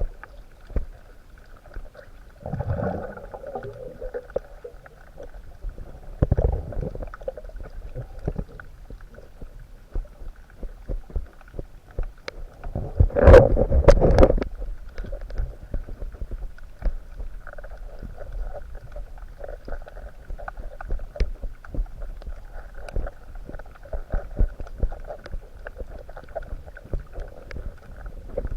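Underwater sound recorded in the sea: muffled water sloshing and gurgling in low surges, three times, the loudest about halfway through, over a faint steady hiss with many scattered small clicks.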